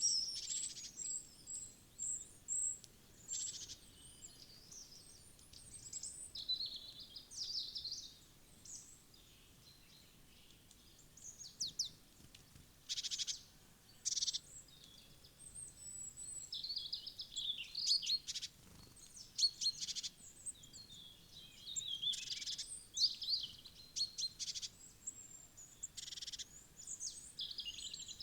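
Small wild songbirds chirping and twittering: many short, high calls, often overlapping, with a quieter lull of a couple of seconds about a third of the way through.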